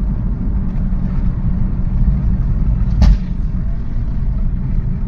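Car on the road, a steady low rumble of engine and road noise, with one sharp knock about three seconds in.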